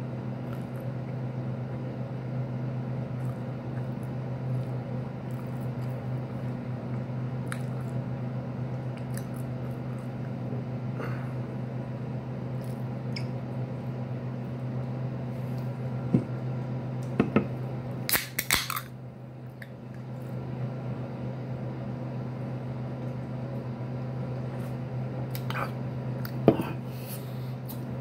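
Close-up wet chewing and mouth smacking of someone eating a sandwich, over a steady low hum. Scattered sharp clicks, and a brief crackly cluster about two-thirds of the way through.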